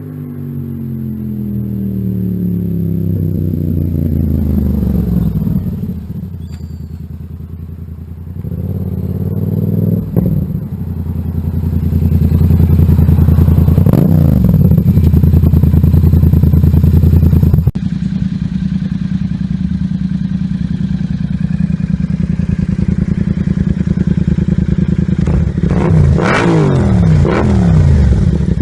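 Yamaha MT-07's parallel-twin engine through an aftermarket exhaust, its pitch falling and rising with the throttle. After a cut the engine runs loud and steady, then is blipped in quick revs with sharp crackles near the end.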